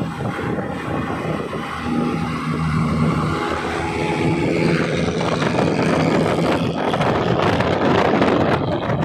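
Toyota Kijang engine and exhaust while driving. A steady engine note rises in pitch about three seconds in, then road and wind noise build and grow louder as the car picks up speed.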